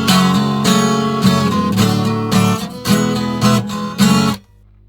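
Strummed acoustic guitar music, loud, which cuts off abruptly about four and a half seconds in, leaving a faint, sparse music bed.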